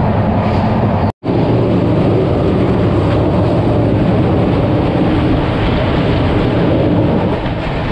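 Passenger train running at speed, a steady loud rumble and rattle heard from the open coach doorway, as it crosses a steel truss bridge. The sound cuts out completely for an instant about a second in.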